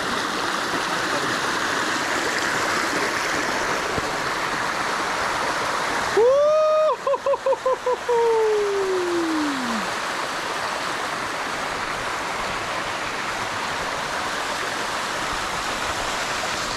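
A steady rushing noise, like wind or running water. About six seconds in, a loud pitched call rises, wavers in quick pulses for about two seconds, then slides down in pitch and fades.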